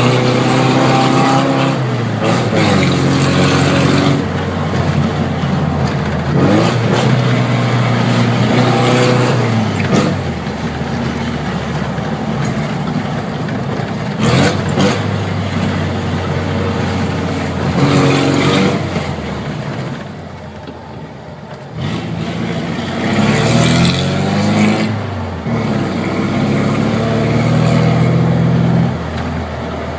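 Air-cooled VW Beetle flat-four engine with a straight 4-into-1 exhaust and no muffler, revving up and dropping back again and again as it accelerates through the gears. Its note dips quieter briefly about two-thirds of the way through.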